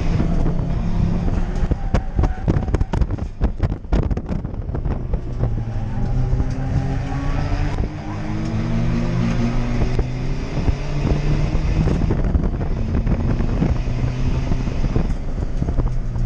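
Toyota Yaris D-4D diesel engine running hard, its revs climbing in several runs and easing briefly about eight seconds in, with a cluster of sharp knocks in the first few seconds and wind noise over it.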